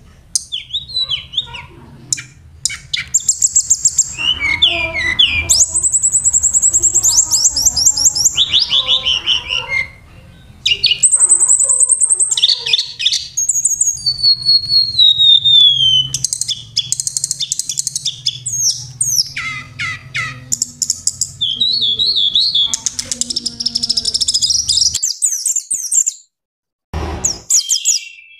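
Songbird song for bird tutoring: a fast, varied run of high trills, rapid chattering notes and falling whistles. It cuts out briefly just before the end, then resumes.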